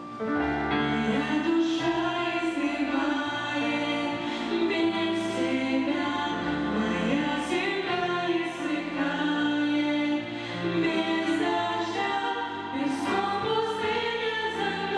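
Choir singing a slow song with held notes.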